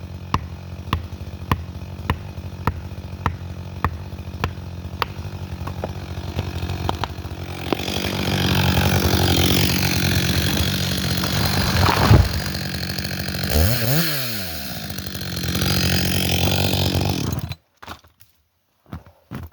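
Chainsaw idling while a felling wedge is struck over and over, about two blows a second. About eight seconds in, a loud rushing, crackling noise takes over, with a heavy crack about twelve seconds in: the broken-topped hemlock going over. The sound stops abruptly near the end.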